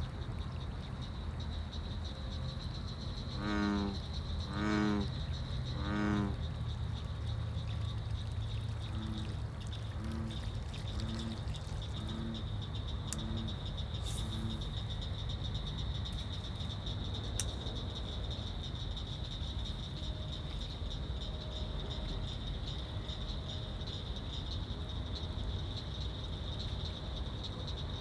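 Bullfrogs calling: three loud, deep calls a few seconds in, then a run of six softer calls about a second apart. A steady, high insect trill runs underneath.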